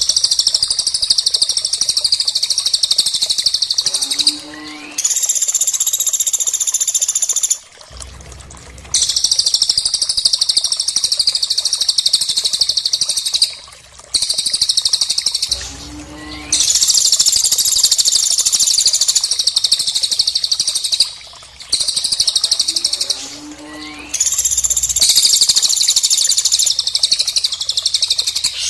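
Loud, fast, high-pitched bird chattering in long bouts of several seconds, repeating after short breaks, with a brief low rising note at the start of some bouts: a looped recording of bird calls for training songbirds.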